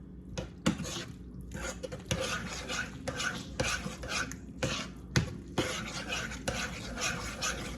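A spoon stirring pasta with powdered cheese and milk in a pot, scraping in steady strokes about twice a second, with an occasional sharp knock of the spoon against the pot.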